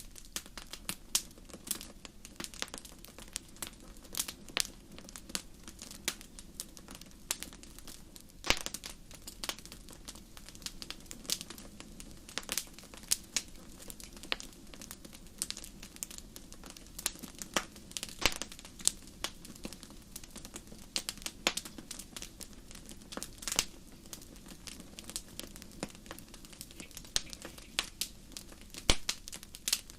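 Wood fire in a fireplace crackling, with irregular sharp pops over a soft steady rumble of the flames.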